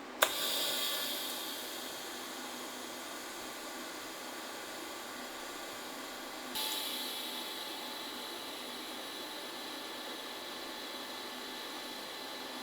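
Welding at the bench: a click as the arc strikes, then a steady, even hiss. The hiss jumps up again at a fresh start about six and a half seconds in.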